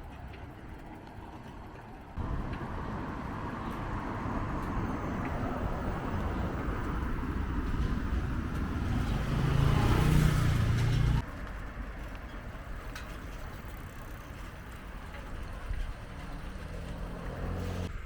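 Road traffic noise, engine and tyre rumble, that comes in suddenly about two seconds in and builds as a vehicle passes close. It peaks around ten seconds in and then drops abruptly to a quieter rumble.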